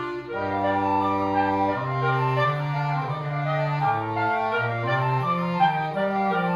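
A woodwind quintet playing live: several sustained wind parts in chords over a low bass line, with the notes changing about every half second to second. A brief break comes just after the start before a new chord enters.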